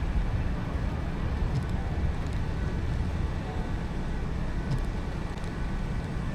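Car driving on wet city streets in the rain: a steady low road rumble with a hiss of tyres and rain over it, and faint short ticks coming in pairs about every three seconds.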